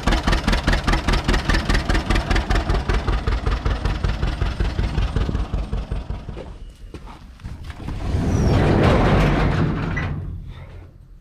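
Tractor engine running with a rapid, even throb that fades away about halfway through, followed by a louder rushing swell that rises and dies off.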